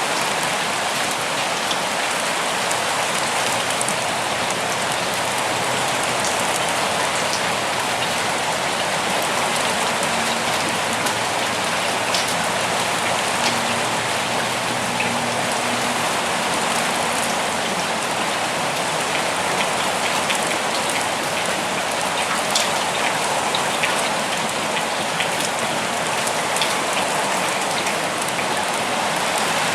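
Steady forest rain: a dense, even hiss of falling rain with individual drops ticking sharply here and there.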